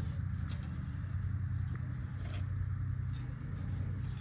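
A steady low engine hum, with a few faint light rustles and clicks.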